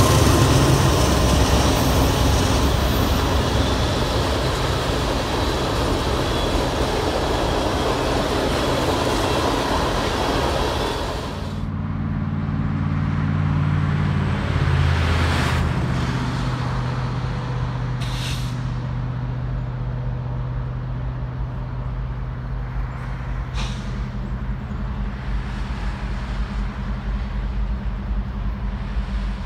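Freight train's tank cars and covered hoppers rolling past, a steady loud rush of wheels on rail. About eleven seconds in it cuts off suddenly, giving way to a quieter, steady low engine drone.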